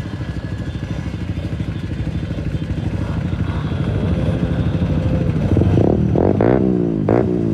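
Keeway RKF 125's single-cylinder engine through a Mivv exhaust with the dB killer removed, idling steadily, then blipped about three times in quick succession near the end, the pitch falling back after each blip.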